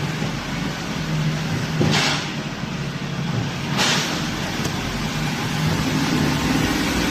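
A truck running steadily with road noise and a low hum, with two short hisses about two seconds apart.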